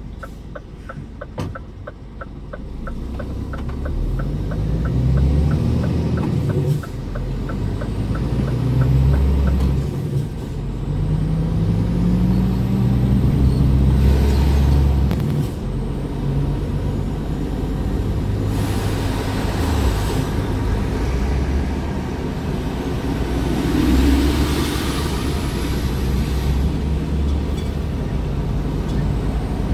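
Scania R410 truck's straight-six diesel pulling away and accelerating, its note climbing and dropping back several times as the automated gearbox shifts up. A regular ticking, about two a second, runs through the first ten seconds.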